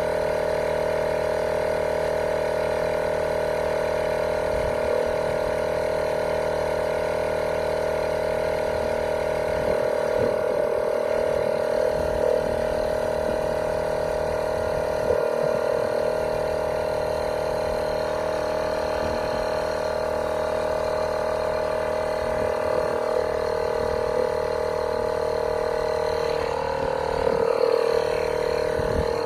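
Cordless portable air compressor running steadily as it pumps air into a car tyre, a constant even tone with no change in pitch. It is inflating toward a preset 32 PSI, at which it shuts off on its own.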